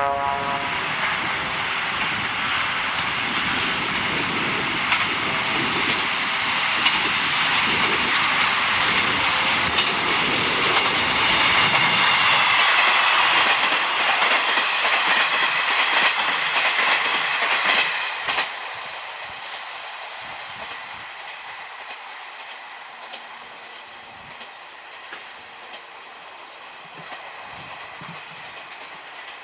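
A train passing close by on jointed track: a loud rumble with its wheels clicking over the rail joints and a high whine over it. The sound drops suddenly about 18 seconds in as the last car goes by, then fades away.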